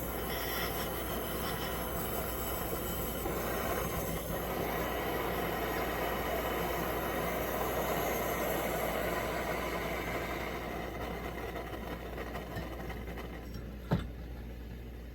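Coleman 523 military stove's pressurized liquid-fuel burner running with a steady rushing hiss that swells a little and then fades over the last few seconds. A single sharp click comes near the end. The owner says it is not running the way he wants.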